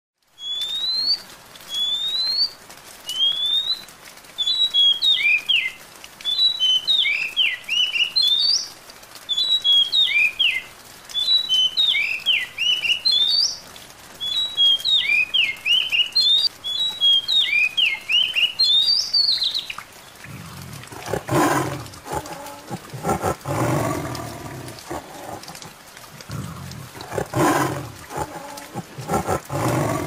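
A songbird sings: first a few rising whistles, then varied whistled phrases repeated every second or so. After about twenty seconds the song stops and a tiger growls in several rough bursts.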